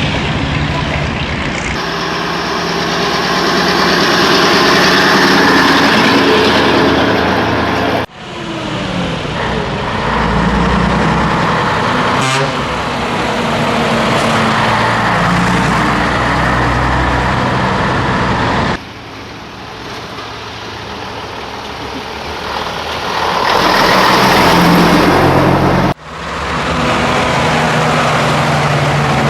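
Old Scania truck's diesel engine running on the road, its pitch rising and falling with the revs, over steady road and wind noise. The sound cuts off abruptly and resumes several times.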